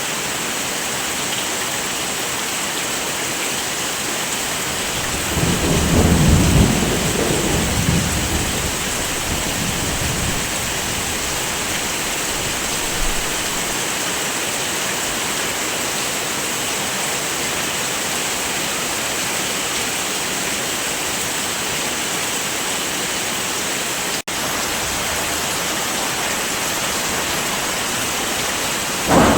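Steady heavy rain, with a roll of thunder rumbling for a couple of seconds about six seconds in. The sound cuts out for an instant about two-thirds of the way through.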